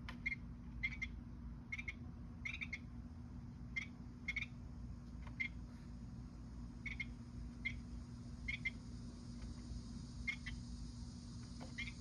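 A bird calling in short, sharp notes, some doubled, about one a second at uneven intervals, over a steady low hum.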